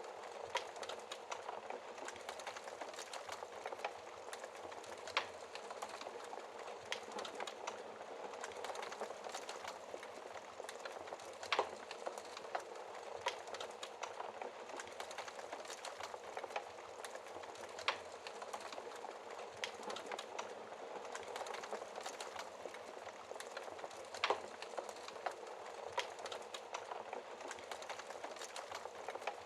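Wood fire crackling in a fireplace: a steady hiss with irregular small pops and snaps, and a couple of louder pops about twelve and twenty-four seconds in.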